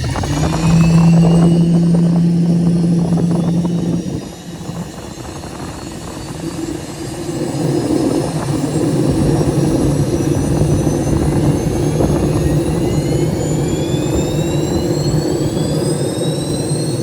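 Helicopter turbine engine spooling up: a high whine climbing slowly and steadily in pitch, over a steady lower hum that grows louder about seven seconds in.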